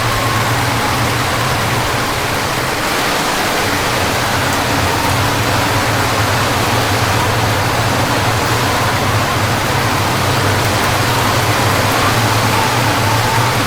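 Steady rush of heavy rain during a thunderstorm, with a low steady hum underneath.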